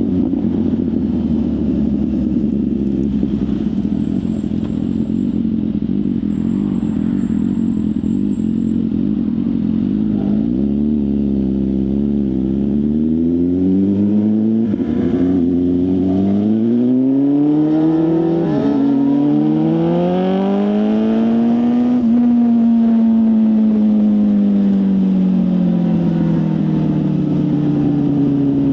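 BMW S1000RR inline-four sport bike with a full exhaust system, ridden. The engine holds a steady note for about ten seconds, then its pitch climbs in several stages through gear changes, and from about two-thirds through it falls smoothly and slowly as the throttle is closed.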